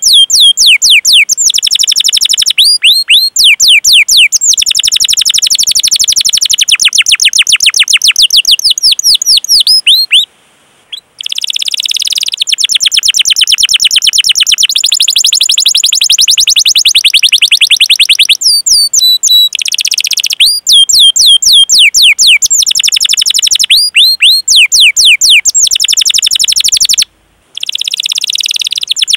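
Domestic canary singing long, rolling trills of rapid, high, downward-sweeping chirps. There are brief pauses about ten seconds in and again near the end.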